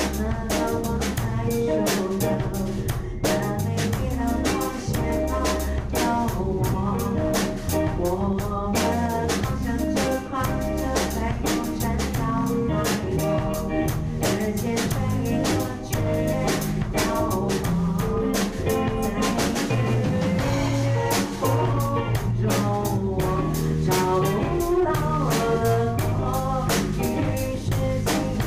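A band playing an instrumental passage of a rock-pop song in a rehearsal recording: drum kit with steady hits, a bass line stepping from note to note, and sustained melodic instruments above.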